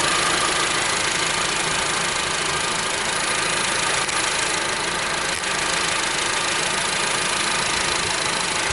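Honda Civic engine idling steadily, heard close up in the engine bay.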